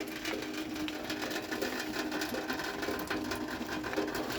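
Rain falling: a steady, dense patter of irregular drop ticks.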